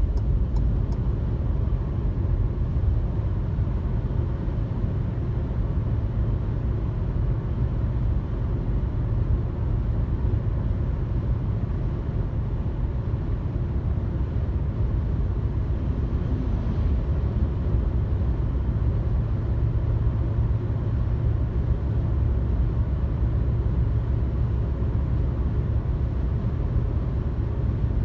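Car cruising on a highway heard from inside the cabin: a steady low rumble of tyre, road and engine noise.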